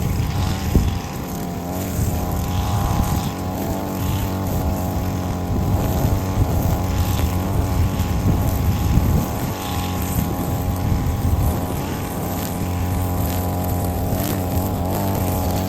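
Lawn mower engine running steadily while mowing, with small wavers in pitch.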